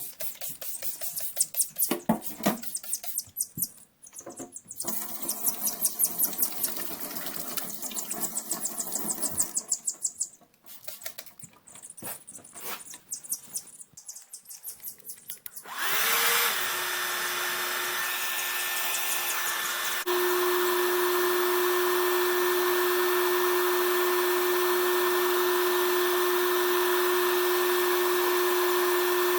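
Irregular short handling noises, then about halfway through a hand-held hair dryer starts and runs with a steady hum, switched to a higher, louder setting a few seconds later, blow-drying a chick washed clean of pasty butt.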